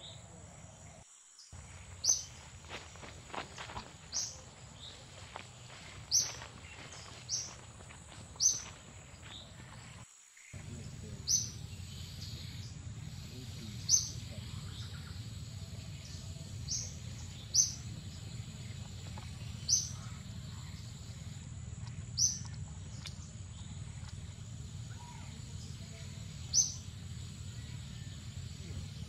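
Outdoor ambience with a bird giving short, sharp high chirps about every two seconds, over a steady thin high-pitched tone and a low background rumble.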